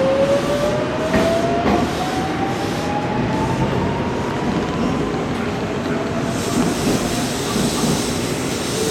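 Electric commuter train accelerating away from the platform, its traction motors whining in one steadily rising tone, with wheels clacking over rail joints and a steady running rumble.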